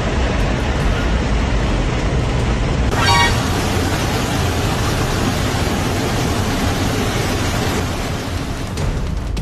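Loud, steady roar of wind rushing into an airliner cabin through an exit door opened during landing, with one brief pitched sound about three seconds in.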